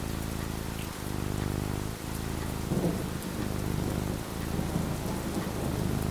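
Steady falling rain, with a low roll of thunder rumbling in about three seconds in and fading over the next couple of seconds.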